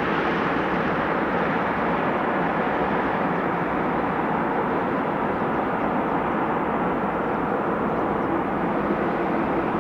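Aircraft engines running, a steady rushing noise that holds at an even level, with a faint steady hum joining near the end.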